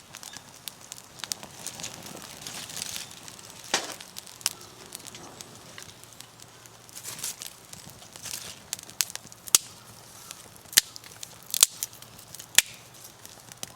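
Wood campfire crackling, with scattered sharp pops, several loud ones in the second half.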